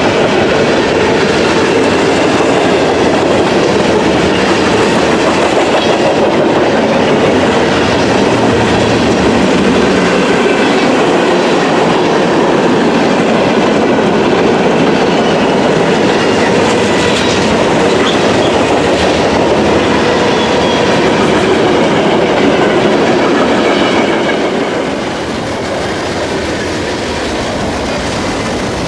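Freight train cars rolling past close by, a loud steady rumble with wheels clacking over the rail joints; the sound eases somewhat about 24 seconds in.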